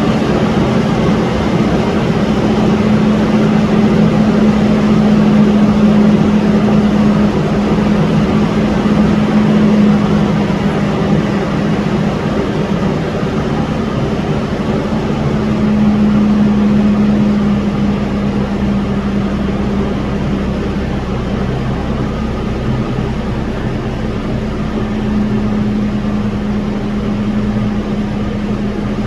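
Toyota 4Runner's 4.0 L V6 engine and exhaust heard from inside the cabin: a steady engine drone with a low hum that swells and fades, over a constant noise.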